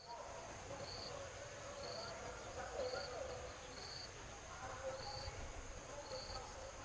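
Insects calling: a steady high-pitched buzz with a short chirp repeating about once a second, over faint lower wavering calls.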